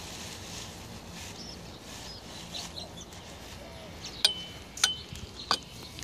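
Faint, high bird chirps over quiet background, then three sharp clicks between about four and five and a half seconds in.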